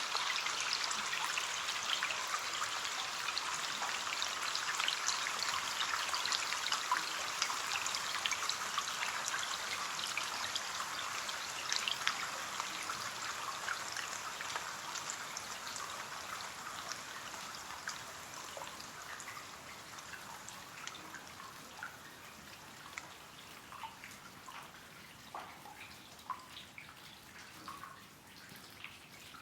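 Rain on a window pane: many small drops hitting together, thinning out gradually until separate drips stand out near the end.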